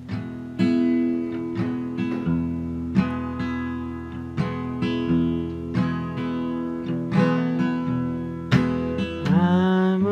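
Background music: an acoustic guitar strummed in an even rhythm, the opening of a folk song. Near the end a held tone that slides in pitch joins the guitar.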